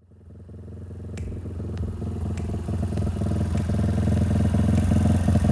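Engine idling with a fast, even pulse, fading in over the first second or two, with a few sharp clicks.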